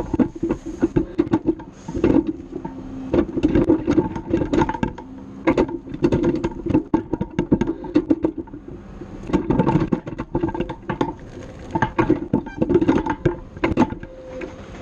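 Dense, irregular knocking and clattering close to a loader's grapple as it works a load, with clusters of sharp knocks coming every second or so.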